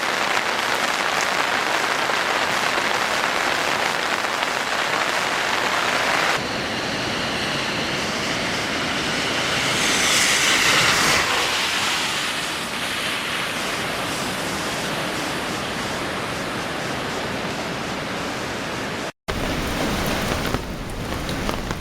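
Steady noise of rough surf and wind left by a passing typhoon, changing abruptly about six seconds in and again near the end.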